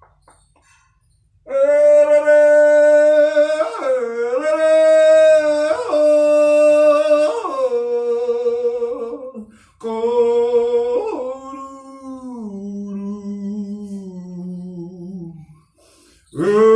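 Unaccompanied solo voice singing a Māori waiata, a lament, in long held notes that slide from one pitch to the next. After a short pause it sings a lower phrase that steps down, then starts a new phrase near the end.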